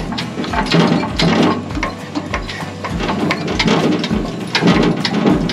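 Hand-crank winch on a Woodland Mills HM130 band sawmill being wound to raise the saw head, its ratchet pawl clicking in a steady rhythm of about two to three strokes a second.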